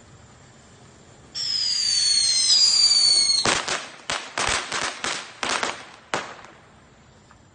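A firework whistling for about two seconds, its pitch falling slightly, then a quick string of sharp crackling bangs lasting about three seconds.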